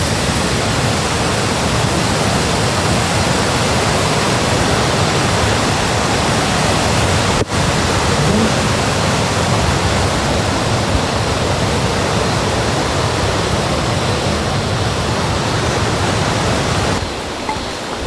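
Steady loud rush of a mountain stream or waterfall, with a brief break about halfway through and a drop in level near the end.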